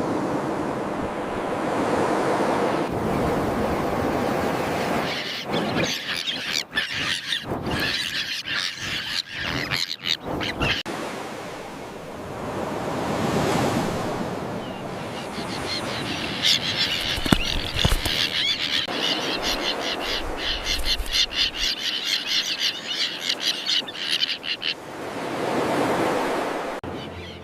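Surf washing in slow swells, with a common tern colony calling in dense, rapid chatter over it in two long spells.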